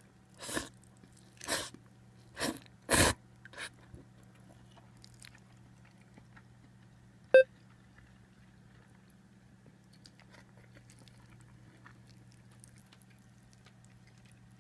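Someone eating noodles: five short, noisy mouth sounds in the first four seconds, then a single sharp clink with a brief ring about seven seconds in.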